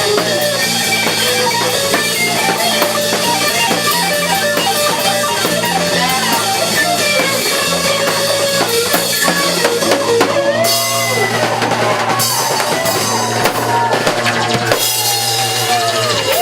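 Live rock band playing loud: drum kit, electric guitar and bass guitar. About ten seconds in, the playing thins to sliding, bending guitar notes, and the bass drops out near the end.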